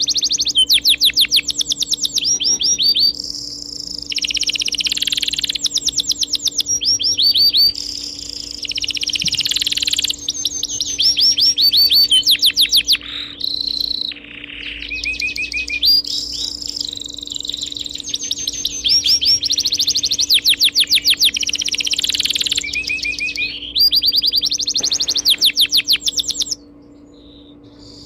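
Songbirds singing loud, rapid trills and chirp series in repeated phrases, with short gaps between them and a pause near the end. A steady low hum runs underneath.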